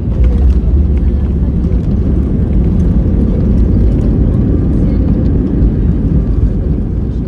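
Steady low rumble of an Airbus A320-214's cabin in flight: engine and airflow noise, rising a little in level just after the start.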